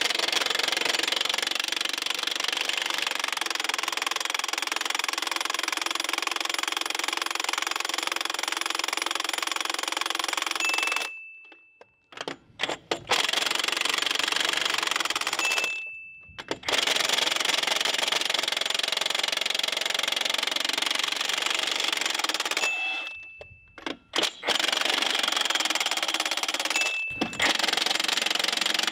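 A Milwaukee M18 FUEL 1-inch extended-anvil D-handle cordless impact wrench hammers on semi-trailer Budd wheel nuts in five long bursts, the first about eleven seconds, with short pauses between. A brief high whine sounds as each burst winds down. The long runs show the nuts, torqued to 450 foot-pounds, slow to break loose.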